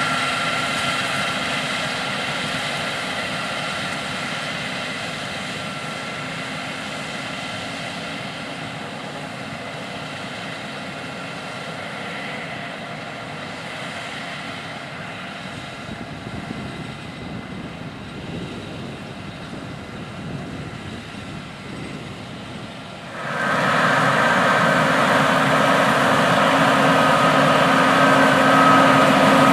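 Large Case IH diesel farm machinery running steadily, an engine drone with a high whine, slowly fading. Then it becomes suddenly much louder and fuller near the end.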